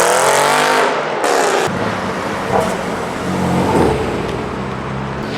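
A car engine, loud and falling in pitch as it comes off the revs, breaks off abruptly about a second and a half in. A quieter, steady low drone of car engines running follows.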